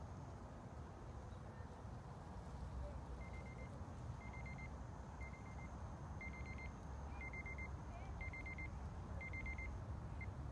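Steady low rumble of background ambience with a series of short electronic beeps starting about three seconds in: quick bursts of four high pips, repeating about once a second seven times, then a single pip near the end.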